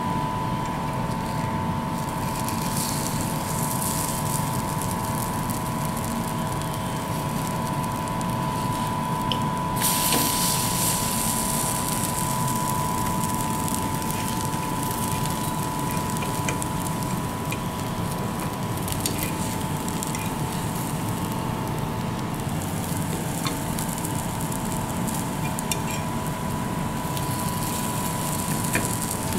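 Potato pancakes sizzling in hot oil in the cups of a greased appe pan, a steady frying hiss with fine crackling that grows louder about ten seconds in, while a metal fork turns them over. A steady hum runs underneath.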